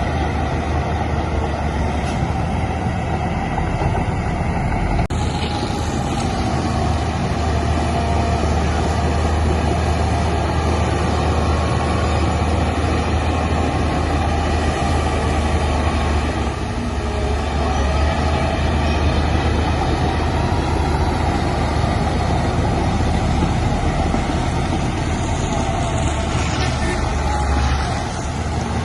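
Heavy diesel engine of earthmoving machinery running steadily with a deep drone, dipping briefly about halfway through and again near the end.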